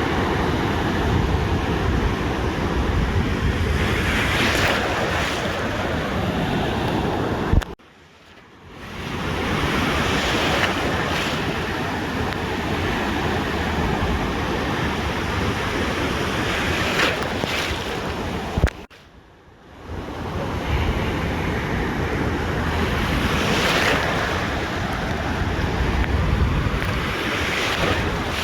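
Ocean surf washing onto a beach in steady swells, with wind rumbling on the microphone. The sound breaks off abruptly twice, about 8 and 19 seconds in, each time with a click followed by about a second of much quieter sound before the surf returns.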